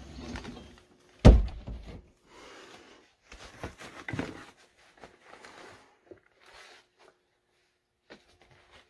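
One loud thump about a second in, in a small room, followed by quieter rustling and a few softer knocks.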